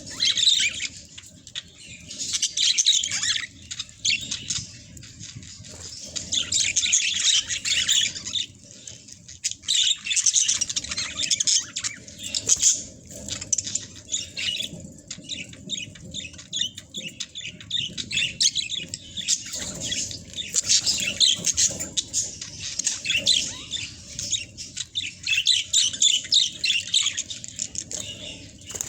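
Budgerigars chirping and chattering without a pause, their high calls overlapping and swelling in loud spells every few seconds.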